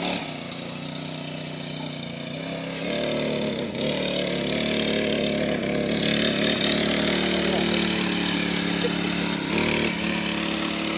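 Small engine of a mini bike running, its pitch stepping up about three seconds in and shifting up and down as it is ridden.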